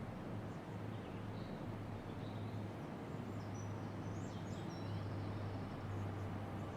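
Steady outdoor background noise with a constant low hum, and faint high bird chirps now and then over the first few seconds.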